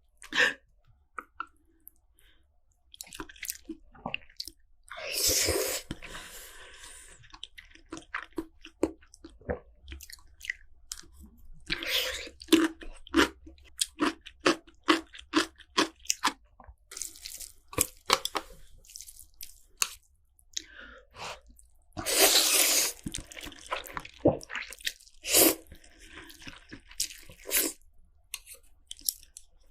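Close-miked eating of spicy instant noodles: many short, wet chewing clicks, with two longer slurps, about five seconds in and again about twenty-two seconds in.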